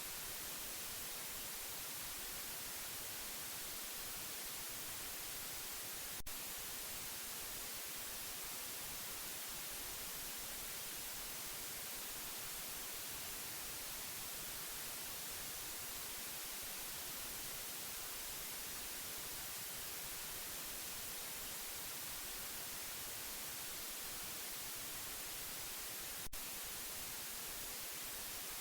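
Steady white noise, an even hiss that leans toward the high end. There are two brief clicks, about six seconds in and near the end.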